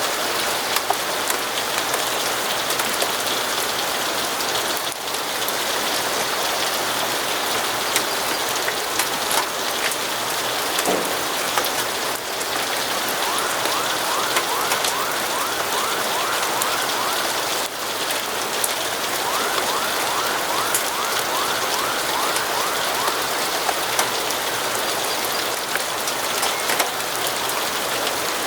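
Steady rain falling, an even hiss with scattered ticks of drops. Twice in the middle comes a quick run of faint, evenly repeated chirping notes, about four a second.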